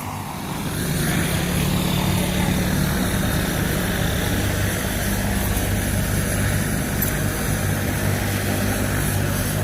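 Medical helicopter running steadily on the ground, engine and rotor giving a constant low hum.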